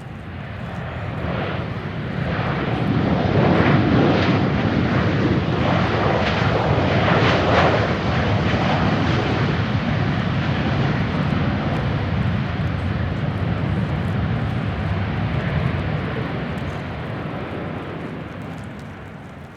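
Boeing 737-800 airliner's CFM56 jet engines passing by: a broad rushing roar that swells over the first few seconds, stays loud for about twelve seconds, then fades away near the end.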